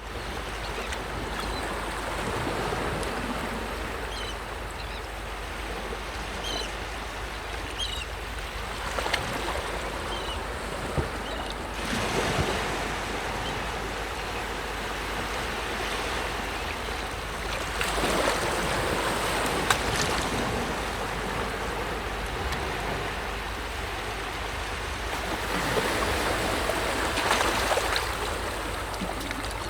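Sea waves washing onto a shore: a continuous surf noise that swells and falls as waves break, with several louder surges. A few faint short high chirps sound in the first third.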